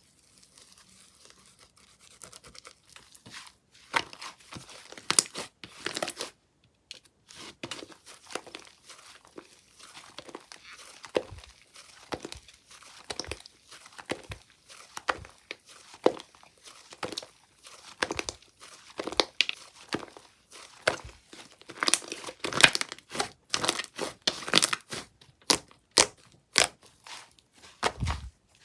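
Hands playing with a chocolate-mousse-style slime: stretching, pressing and pulling it apart gives an irregular run of small crackles, pops and tearing sounds, which grows busier and louder in the second half.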